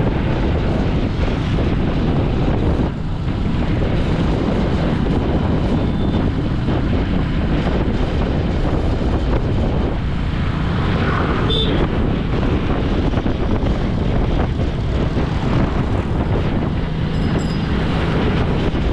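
Steady vehicle travel noise: a loud, even rumble with wind buffeting the microphone.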